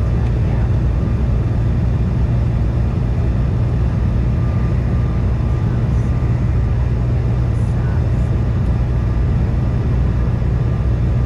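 Steady cabin noise inside a CRJ-550 regional jet in flight: a constant low drone from its rear-mounted jet engines, with airflow noise over the fuselage.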